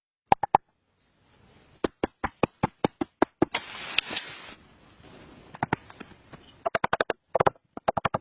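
A rapid series of sharp knocks, several a second in uneven runs, with a short burst of rustling noise about four seconds in.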